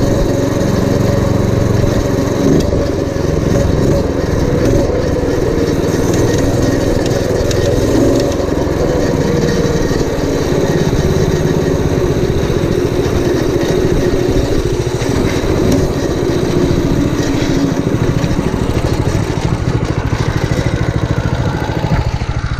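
Predator 212cc single-cylinder four-stroke engine on a homemade minibike, running steadily with small wavers in speed.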